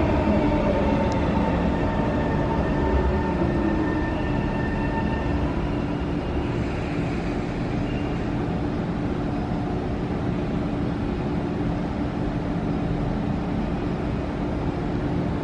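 SMRT C151 electric train standing at the platform with a steady electrical hum made of a few held tones over a noise bed. A falling whine dies away in the first second as the train settles to a stop.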